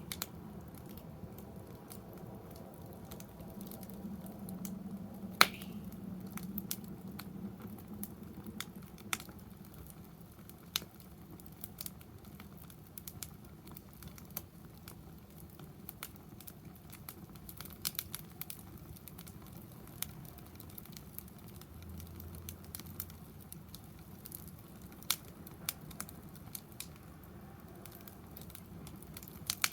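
Wood fire in a fire-pit stand crackling, with scattered sharp pops and snaps; the loudest snap comes about five seconds in.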